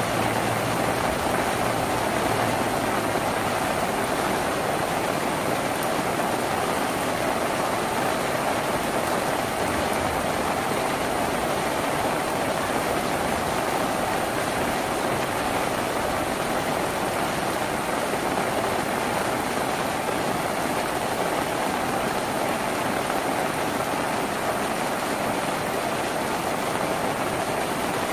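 Steady rain falling on a tin roof, a dense even hiss with no let-up.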